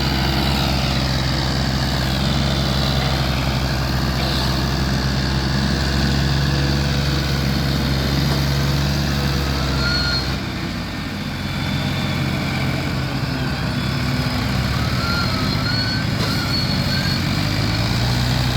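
Tractor engine running steadily under load. About ten seconds in, the engine note drops and lightens briefly, then picks up again.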